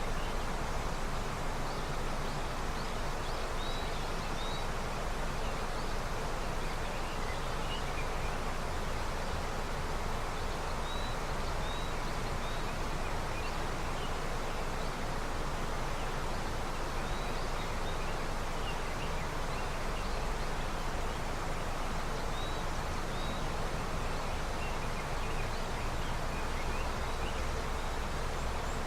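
A river swollen with snowmelt, flowing in a steady rush. Small birds chirp briefly now and then above the water noise.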